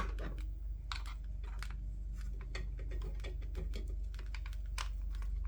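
Light, irregular clicks and taps from small plastic parts of a gaming headset's headband being handled and taken apart, over a steady low hum.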